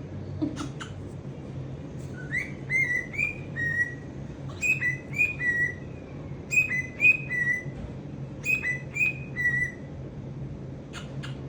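Pet cockatiel whistling a short tune of about four clear notes, the first note sliding upward, repeating the phrase four times with short pauses between.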